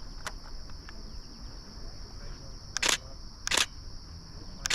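Canon Rebel T7i DSLR shutter firing in three short bursts in the second half, over a steady high buzz of insects.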